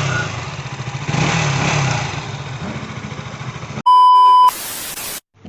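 KTM Duke 200's single-cylinder engine running, its revs rising briefly about a second in. Near the end it cuts to a loud steady beep, then a short burst of static hiss.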